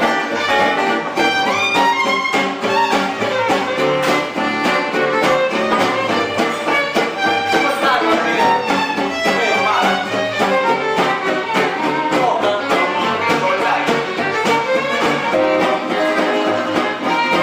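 Live band music: a violin plays a fast, wavering melody over guitar accompaniment.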